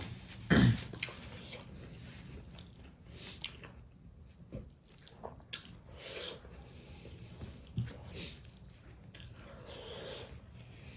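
A person biting and chewing food close to the microphone during a mukbang meal of fish, tomato and stink beans, in irregular small bites and chews, the loudest about half a second in.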